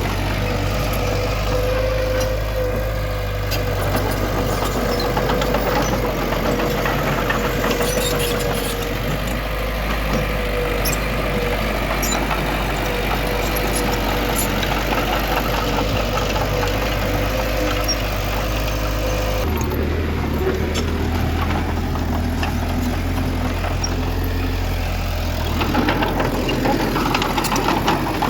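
Heavy diesel machinery engine running steadily, with a steady whine and scattered metallic clanks. The engine sound changes abruptly about two-thirds of the way through.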